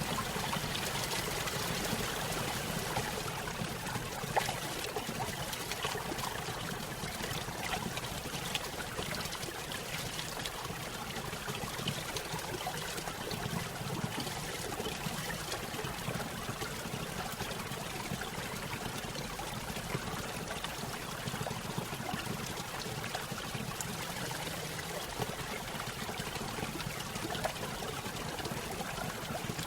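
Small stream spilling over a little waterfall: steady trickling and splashing water with many small splashes.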